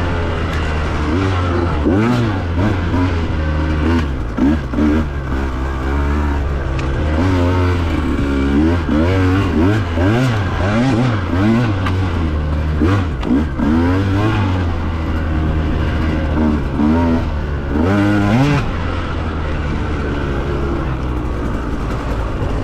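Husqvarna two-stroke dirt bike engine revving up and down again and again as the throttle is worked, then holding a steady note for the last few seconds.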